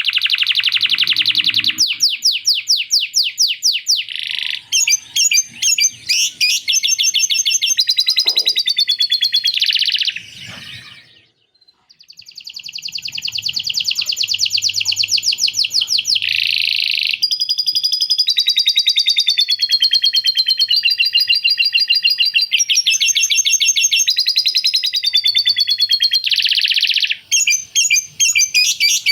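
Male canary singing a long song of rapid rolling trills and chattering phrases, including lovebird-style 'ngekek' chatter it has learned. The song breaks off briefly a little before halfway, then carries on.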